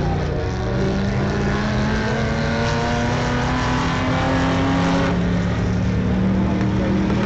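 Several vintage race cars' engines running at speed together, their pitches slowly rising and falling as they circle; one higher engine note drops out about five seconds in.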